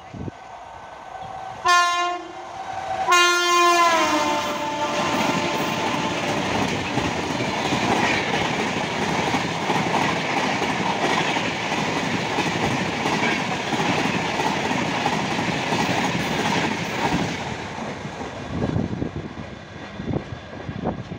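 An Indian express train passing at about 130 km/h. The locomotive sounds its horn in a short blast and then a longer one whose pitch drops as it goes by, followed by the rush and clickety-clack of the coaches speeding past, which fades near the end.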